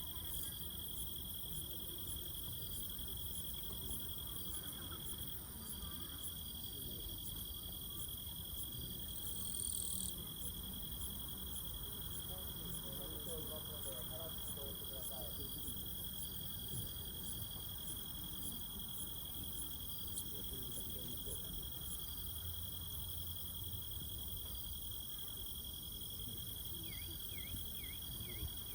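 A chorus of night insects, crickets among them, chirring without a break in one steady high-pitched drone over a low rumble, with a brief hiss about ten seconds in.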